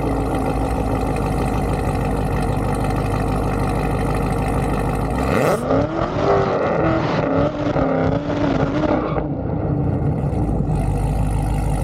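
Car engine running steadily, then revving with several rising pitch sweeps between about six and nine seconds in, before settling back to a steady drone.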